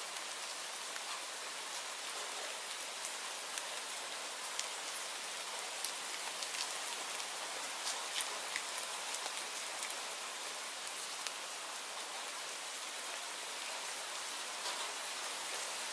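Steady rainfall: an even hiss with scattered sharp ticks throughout.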